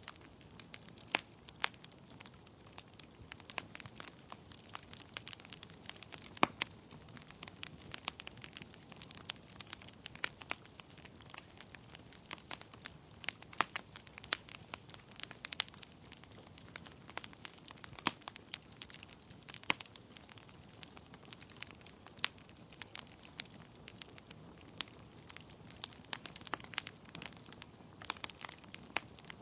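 Wood fire in a fireplace, logs crackling and popping in sharp, irregular snaps over a low steady rush of flame.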